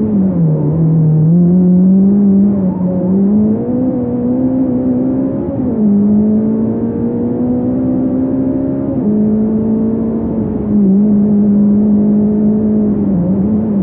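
Fiat Punto race car's engine under hard driving at racing speed, heard from a camera mounted low on the car. Its pitch climbs and dips with throttle and gear changes, with sharp steps about six and nine seconds in.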